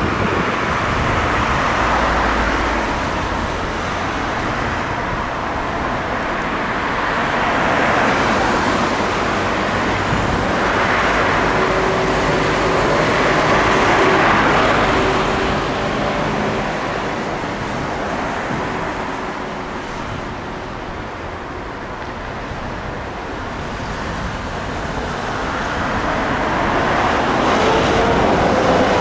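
Road traffic: vehicles passing one after another, the tyre and engine noise swelling and fading several times. A rising tone starts near the end.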